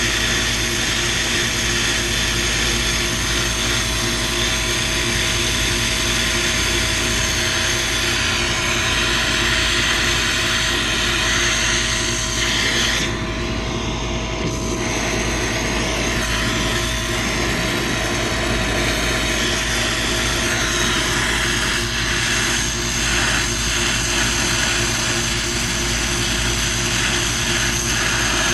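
Steady mechanical drone with several fixed hum tones under a wide hiss, running without a break; the high end briefly thins out about 13 seconds in.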